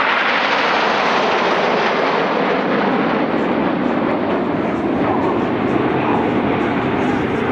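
Formation of Red Arrows BAE Hawk T1 jets flying past, a loud steady jet rush from their turbofan engines, its pitch shifting slowly as they pass.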